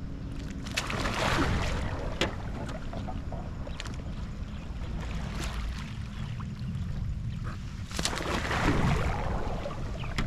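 Kayak paddling on open water: two paddle strokes swish through the water, about a second in and again near the end. A steady low wind rumble runs on the microphone underneath.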